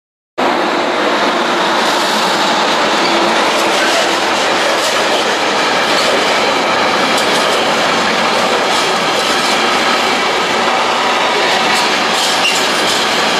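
A train running past on the line: a steady, loud rush of wheel and rail noise with light high ticks, starting abruptly.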